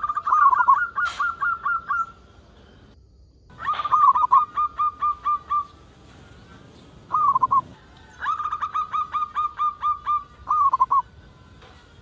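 Zebra dove (perkutut) cooing: three phrases of about eight quick, evenly spaced notes each, with a short burst of notes between the second and third.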